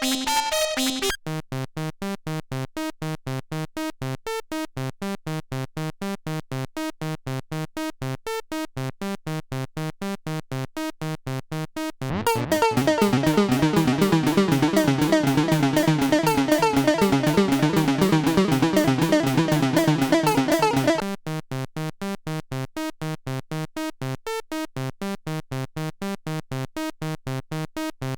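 Roland SE-02 analog monosynth playing a fast sequenced run of short, evenly spaced notes, switching between preset patches. About 12 seconds in it changes to a louder, brighter sound that sweeps up in tone as it starts, then drops back to short, thinner notes about 21 seconds in.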